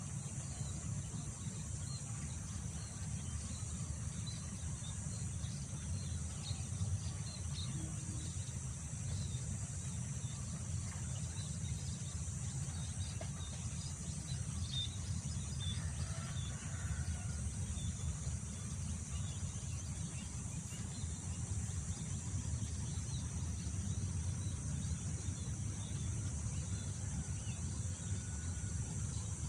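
Wind rumbling on the microphone, over a steady high-pitched drone of insects, with scattered faint bird chirps throughout.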